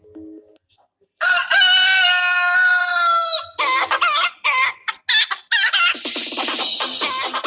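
Rooster-and-hen ringtone: a long rooster crow about a second in, followed by a run of rapid clucking.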